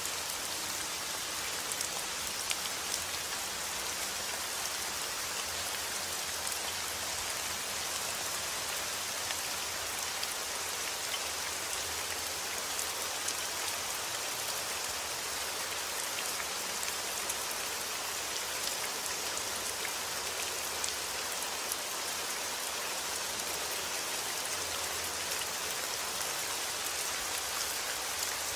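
Heavy rain falling steadily: a dense, even hiss with scattered sharper ticks of single drops striking a surface.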